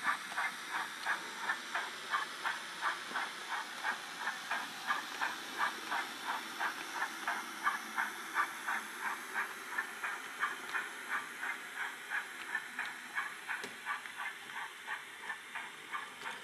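Model steam locomotive's factory sound decoder playing steady exhaust chuffs through its small speaker, about three a second, growing fainter toward the end. One sharp click is heard about two-thirds of the way through.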